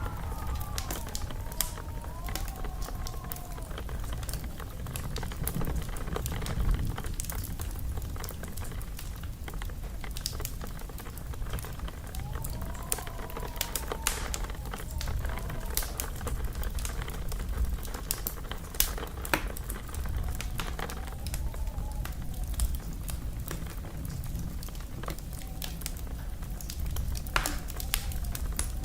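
Fire in a fireplace crackling, with sharp pops scattered over a steady low rumble. A faint wavering whistle rises and falls now and then.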